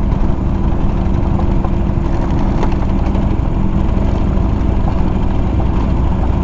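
Buell V-twin motorcycle engine running steadily at low speed, under a dense low rumble of wind and road noise.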